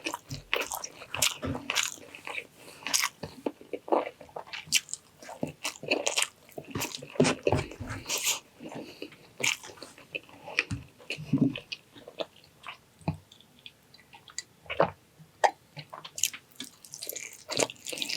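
A person eating close to the microphone: irregular chewing and biting with many short mouth clicks and smacks, on a meal of braised pork cheek with rice and cucumber.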